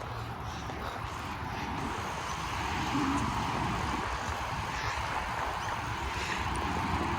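Steady rushing vehicle noise, swelling a little over the first few seconds and then holding level.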